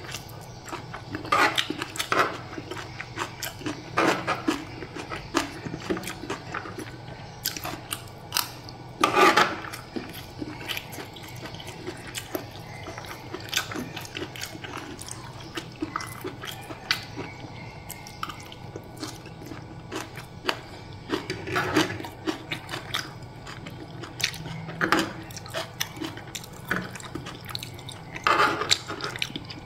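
Close-up eating sounds: a person chewing fried noodles and beef rendang with wet mouth sounds, and scattered sharp clicks of a metal spoon and fork against the tray. A few louder bursts stand out, one about nine seconds in and another near the end.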